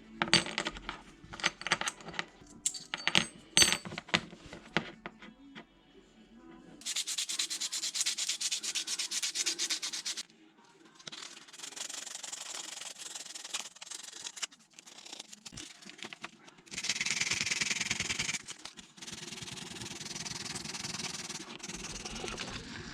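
Hands working on small truck parts: a run of sharp clicks and knocks, then several stretches of rubbing or scraping noise that start and stop abruptly.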